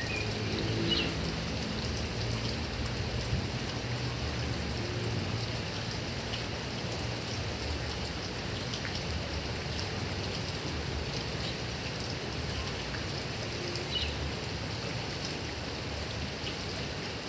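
Heavy rain falling steadily on grass and palm trees, a dense even hiss with scattered sharper drop ticks. A low rumble sits underneath for the first half or so.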